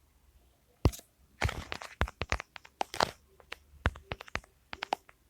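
A quick, irregular run of sharp clicks and taps, starting about a second in and coming thick and fast for the rest.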